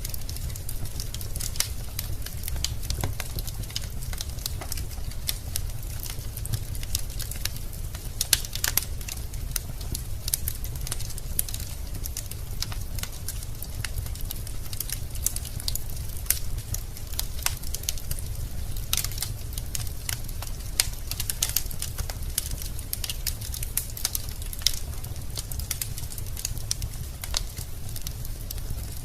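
Wood fire burning in a fireplace: logs crackling with irregular sharp pops and snaps over a steady low rumble.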